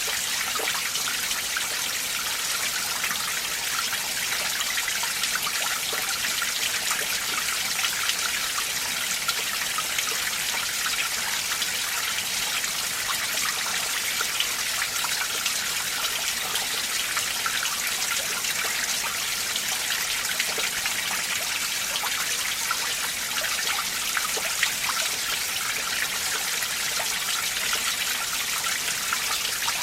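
Icy winter mountain stream running over rocks: a steady, high-pitched trickling and splashing, full of tiny droplet sounds, with no change throughout.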